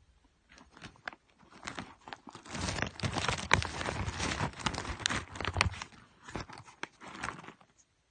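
Plastic snack wrapper being handled and torn open, crinkling irregularly and most busily in the middle stretch before it stops near the end.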